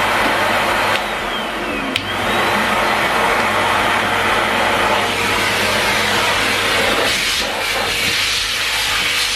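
Numatic Henry Pet vacuum cleaner running with a steady rushing noise and hum. About a second in, its whine briefly drops in pitch, then snaps back with a click.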